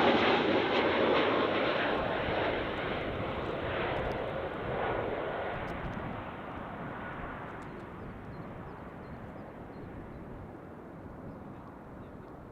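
Jet airliner on short final, its engine roar fading steadily as it flies away from the listener toward the runway.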